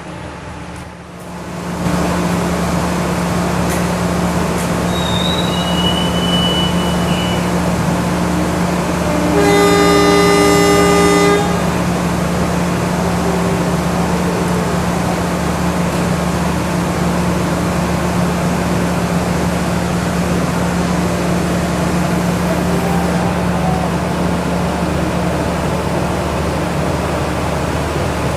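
Diesel passenger train running steadily through a station, its locomotive horn sounding one blast of about two seconds roughly ten seconds in.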